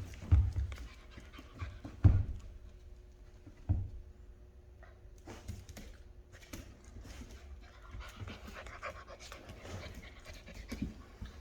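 Rottweiler puppies panting hard as they play, with three sharp knocks in the first four seconds.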